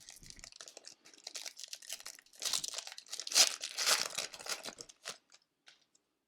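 Wrapper of a hockey-card pack being torn open and crinkled, in a run of crackles that is loudest in the middle and dies away about a second before the end.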